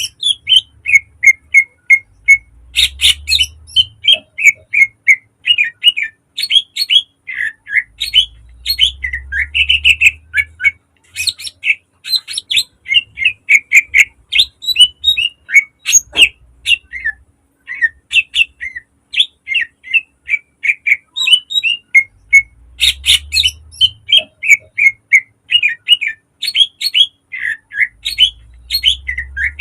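Cucak ijo (green leafbird) singing: a rapid, near-continuous stream of sharp, varied chattering phrases and mimicked calls, with only short pauses between them.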